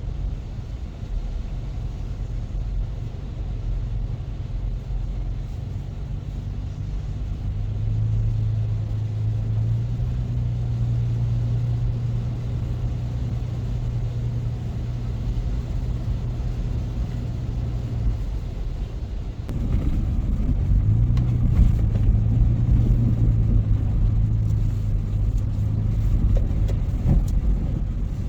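A motor vehicle's engine running steadily with a low hum. It steps up in level about a third of the way in, dips briefly, then picks up again and louder past the middle.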